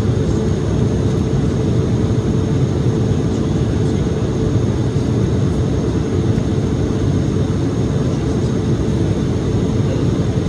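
Steady cabin noise inside an Embraer E-175 jet airliner in flight: a continuous low rumble of the engines and airflow, with a steady hum on top.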